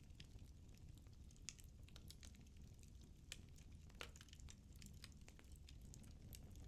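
Firewood burning in a fireplace: faint, irregular crackling and small pops over a low steady rumble, with one sharper pop about four seconds in.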